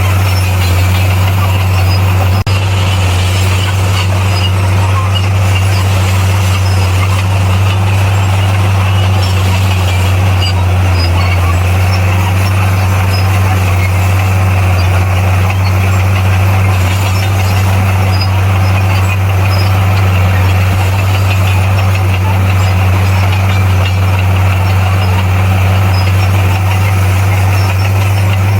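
Bulldozer's diesel engine running with a loud, unbroken low drone that holds steady in pitch and level.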